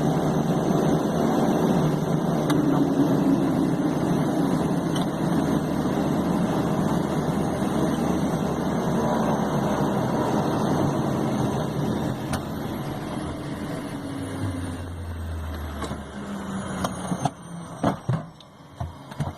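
Beechcraft King Air B200's Pratt & Whitney PT6A turboprop engine running, then winding down over the last several seconds with a falling turbine whine as the noise fades, a few clicks near the end.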